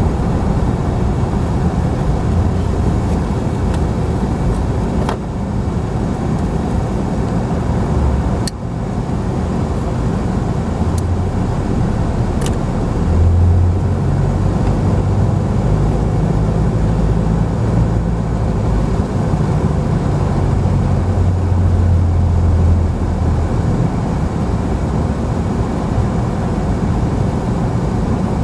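Car cabin noise while driving: a steady low engine hum and road rumble. The engine note strengthens for several seconds in the middle, and a few brief sharp clicks are heard.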